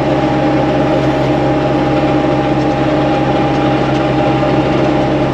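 Tractor engine running at a steady speed while baling hay, heard from inside the cab as an even, unchanging drone.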